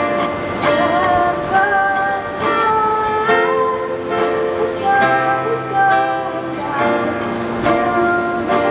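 Female vocals singing long held, gliding notes over plucked acoustic guitar accompaniment, a slow live performance.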